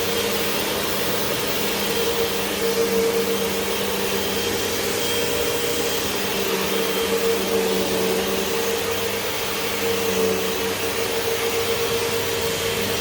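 Vacuum cleaner running steadily on carpet, a continuous motor drone with airflow noise.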